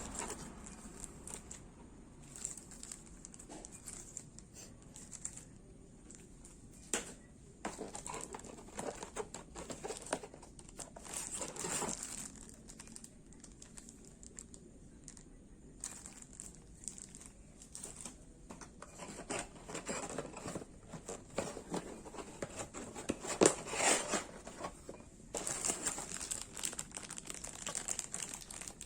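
Packaging being handled: irregular crinkling and rustling with sharp crackles, busiest in two stretches, about a quarter of the way in and again in the second half.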